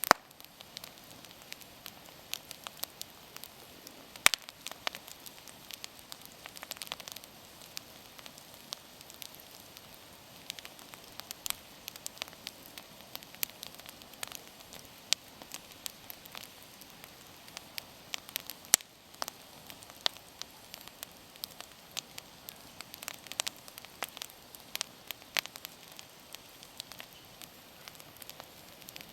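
Wood campfire burning, crackling and popping in irregular sharp snaps over a faint steady hiss.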